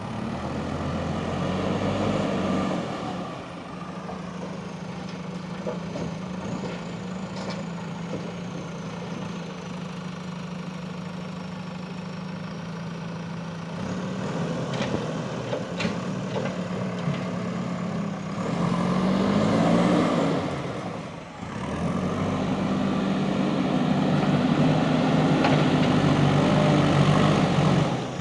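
JCB 3DX Super backhoe loader's diesel engine running steadily, then revving up about two-thirds of the way in, dropping off for a moment and running hard again to the end. A few sharp knocks come around the middle.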